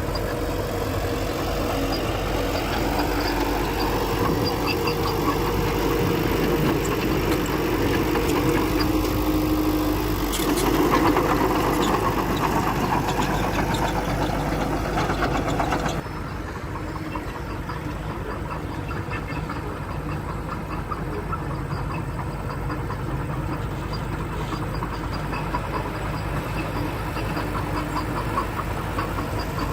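Heavy construction machine's diesel engine running under varying load. About halfway through the sound changes abruptly to quieter, steadier running.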